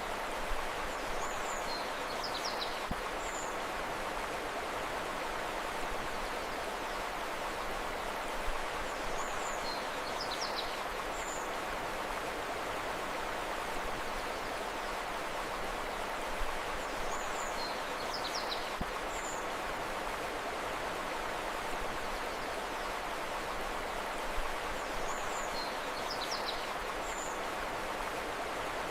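Steady rushing of flowing river water, with a short group of high bird chirps that recurs about every eight seconds, four times in all.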